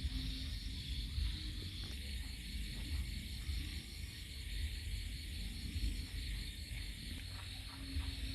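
Night insects, crickets among them, keeping up a steady high chorus that pulses rapidly and evenly, over a low uneven rumble.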